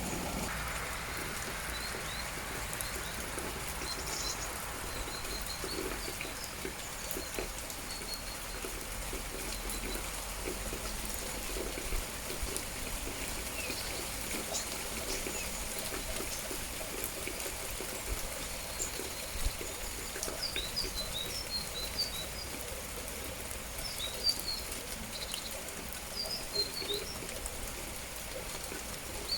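Steady patter of rain with scattered drips, and small birds giving short high chirps, off and on at first and more often in the last third.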